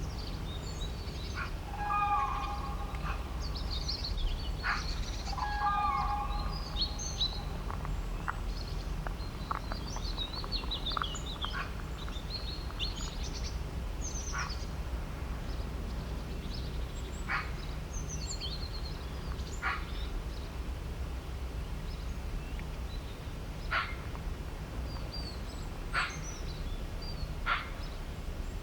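Several small birds chirping and trilling in short high calls, with sharp single notes scattered throughout, over a steady low rumble. Two lower, fuller calls sound in the first six seconds.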